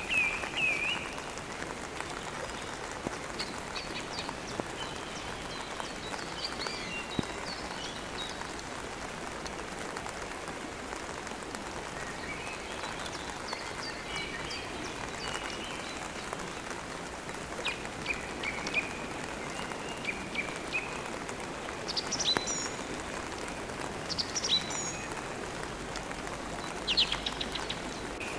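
Steady rain falling, with birds chirping and trilling at intervals over it, the calls busier a little after the middle and again near the end.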